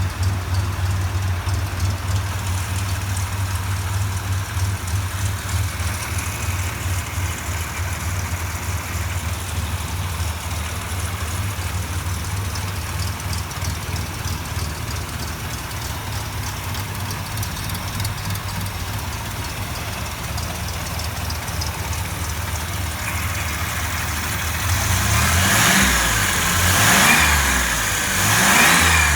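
MerCruiser 4.3 LX 262 cubic-inch V6 marine engine running at a steady idle. Near the end it is revved up and back down a couple of times.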